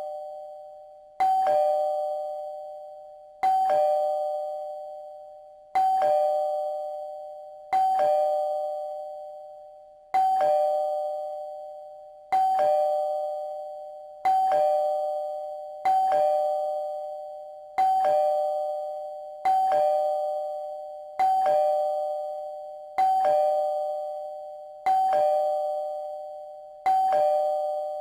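Doorbell chime ringing its two-note ding-dong, a higher note then a lower one, each fading away. It repeats about every two seconds.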